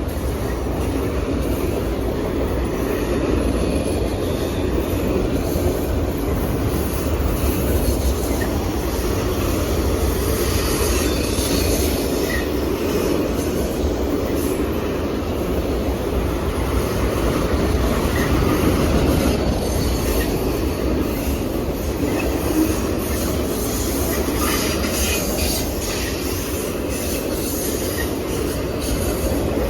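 Train rolling past: a steady rumble of railcar wheels on the rails, with clicks over rail joints in the second half and a few short, faint wheel squeals.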